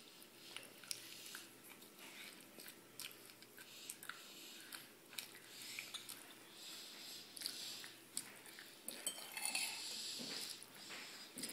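A person chewing food with dentures, with small clicks and scrapes of a metal fork on a china plate; the sounds grow louder near the end.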